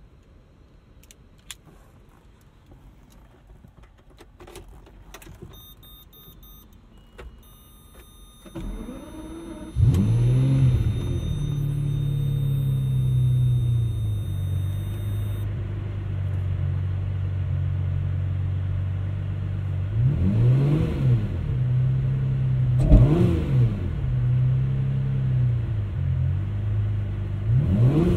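Lamborghini Murcielago's 6.2-litre V12 being started: a few clicks and electronic beeps, then the starter cranks and the engine catches with a rev and settles into a steady idle. Near the end it is revved three times, each rev rising and falling.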